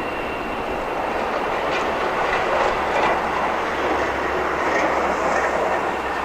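Freight train rolling past, steel wheels running on the rails with a steady rumble and a few faint clicks over rail joints.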